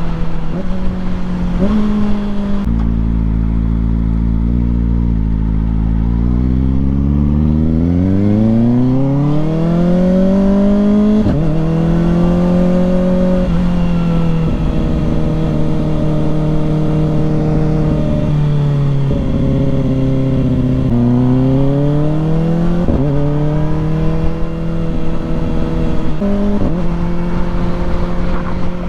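Kawasaki ZX-4RR's inline-four engine under way. Its pitch climbs in long sweeps through the revs and snaps down sharply at each gear change, several times, with a steady stretch of cruising in the middle.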